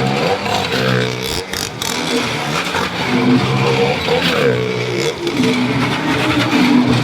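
Motorcycle engines revving as the stunt riders circle the wall of death, their pitch rising and falling over and over as they go round.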